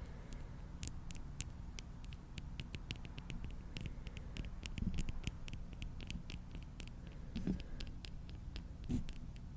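Close-miked ASMR trigger sounds: many small, irregular clicks and crackles over a low hum, with a few soft thumps about five, seven and a half, and nine seconds in.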